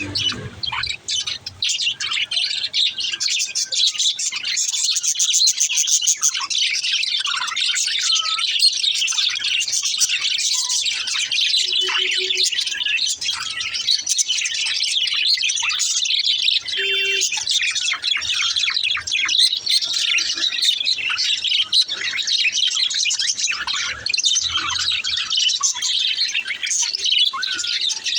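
Small birds chirping and twittering without a break, many quick high calls overlapping at once.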